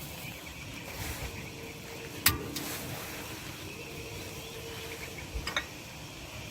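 Steady rain, with one sharp knock about two seconds in and a couple of smaller clicks near the end.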